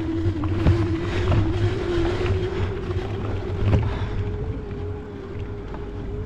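E-bike motor whining steadily under heavy load on a steep climb, its pitch creeping up slightly, over a low rumble with a few light knocks.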